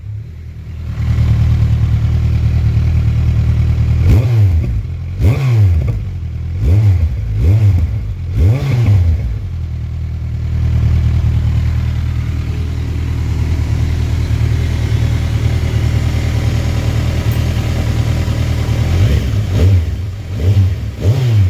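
Kawasaki Ninja 1000SX inline-four engine with Lextek aftermarket headers and stock mufflers, idling and being blipped. A run of short revs, each rising and falling quickly, comes between about four and nine seconds in. A steady idle follows, then several more quick blips near the end.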